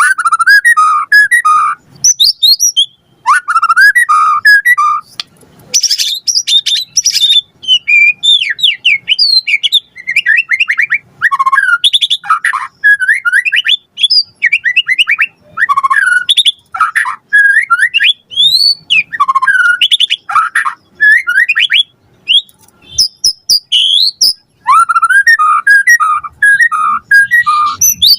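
White-rumped shama singing a loud, continuous song of rapidly varied phrases: repeated rich whistles, fast trills and quick rising and falling sweeps, with only brief pauses.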